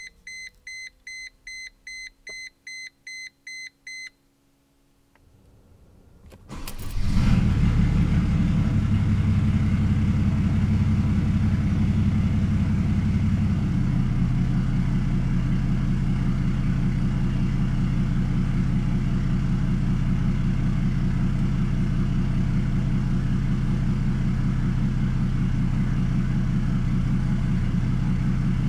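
A dashboard chime beeps rapidly, about three times a second, for roughly four seconds and then stops. After a short quiet spell the 1999 Mercedes-Benz E300's 3.0 L OM606 inline-six indirect-injection turbodiesel cranks briefly and catches on a cold start. It runs a slightly raised cold idle for several seconds, then settles a little lower into a steady idle.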